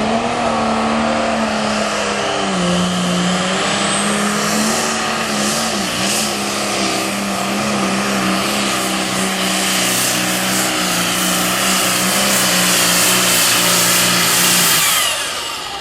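Super stock pulling tractor's engine running flat out under load through a pull, holding a nearly steady high pitch with a few brief dips, then cutting back near the end.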